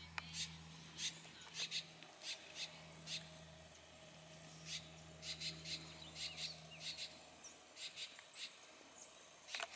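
Small birds chirping in short, irregular calls, some with quick pitch slides, over a faint steady low hum.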